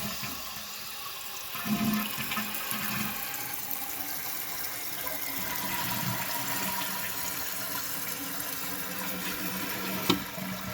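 Toilet tank fill valve running, with water flowing steadily into the tank and hissing. The tank keeps refilling, the sign of a slow leak down the overflow. A single sharp click near the end.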